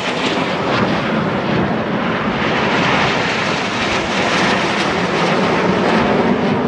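Jet aircraft flying past, a loud, steady engine rush that fills the whole stretch.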